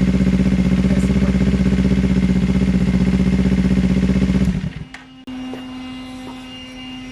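A 2025 Kawasaki Ninja 500's parallel-twin engine idles steadily through an aftermarket slip-on muffler, then shuts off suddenly about four and a half seconds in. A quieter steady hum is left after it stops.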